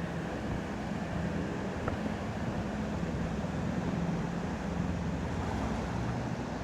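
Yamaha MT-03 motorcycle's parallel-twin engine running steadily while riding, with wind rushing over the microphone.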